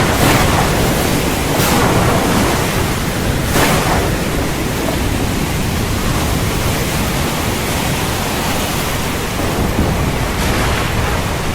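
Heavy rain falling in a steady, dense hiss, with two brief surges in intensity a couple of seconds in.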